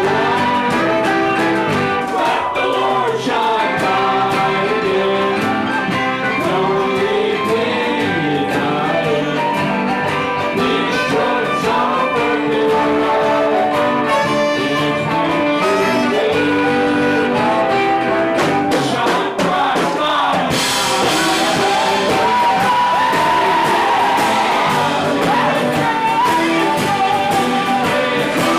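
Live band playing a song at full volume, with a brighter, fuller sound from about two-thirds of the way through.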